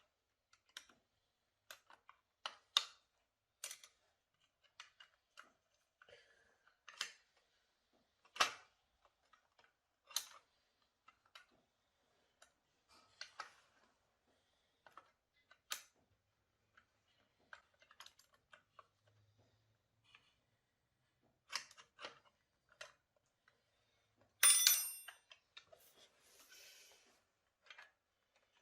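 Scattered small clicks and taps at irregular intervals, like hands handling small hard parts, with a louder scraping rattle lasting about a second near the end.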